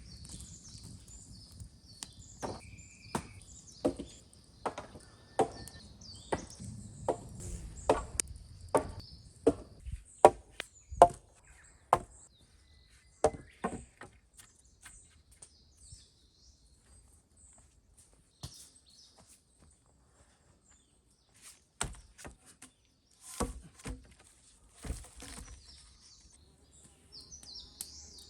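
Repeated sharp strikes on wood in a chopping rhythm, about one to two a second for some twelve seconds, then a short pause and a few more strikes. Birds chirp in the background.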